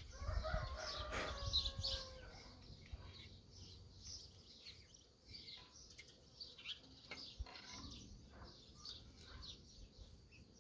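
Small birds chirping, with a few faint clicks and knocks of metal pump parts being handled as the impeller is fitted onto the shaft.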